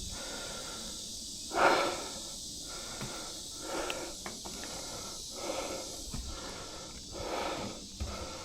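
A mountain-bike rider breathing hard: a loud exhale about a second and a half in, then a breath every second or two, over a steady hiss.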